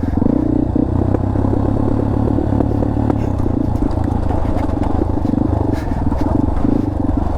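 Dirt bike engine running steadily at low revs, heard from on the bike while it rides down a rocky trail, with occasional clatter from the bike going over rough ground.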